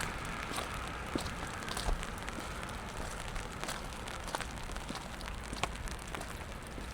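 Steady rain falling on wet pavement, with scattered sharp drips and taps.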